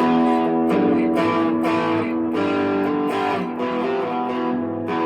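Electric guitar, a Fender Player II Stratocaster, played through a Behringer Centaur overdrive pedal: a run of strummed chords, each stroke ringing on into the next.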